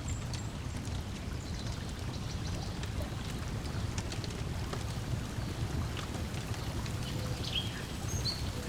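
Lakeside ambience: water lapping against the shore with a steady low wash, a wood fire crackling with scattered sharp pops, and a few short bird chirps near the end.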